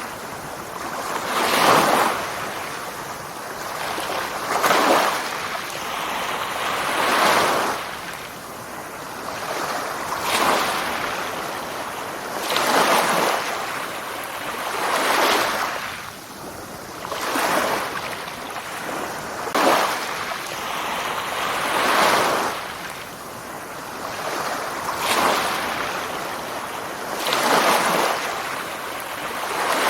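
Sea waves washing in and drawing back, in even surges about every two and a half seconds.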